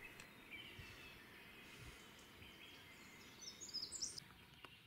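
Near silence: quiet forest ambience, with a brief cluster of faint, high-pitched bird chirps about three and a half seconds in.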